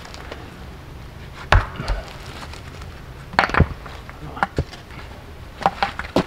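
About half a dozen sharp knocks and thuds at irregular intervals, a second or so apart.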